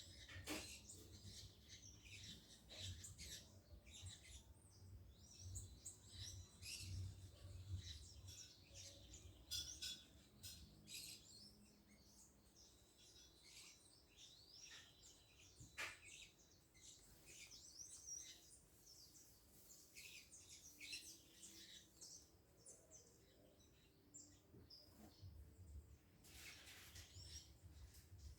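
Faint chirping of small birds: many short, high calls scattered throughout, over a faint low rumble.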